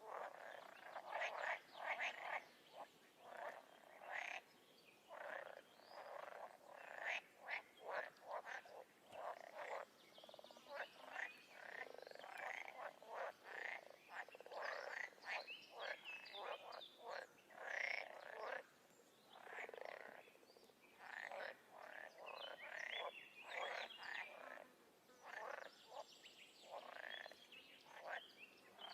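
Chorus of frogs croaking: many short calls overlapping and following one another in quick, irregular succession.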